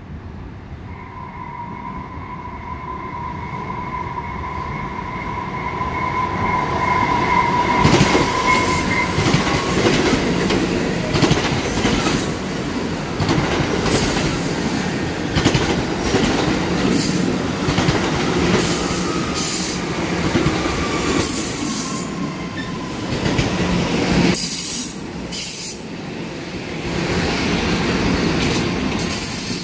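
Bombardier MR-90 electric multiple-unit commuter train approaching with a steady high-pitched squeal, growing louder, then passing close by with a dense rumble and many sharp wheel clicks over the rails. Near the end the sound cuts abruptly to another train rumbling along a platform.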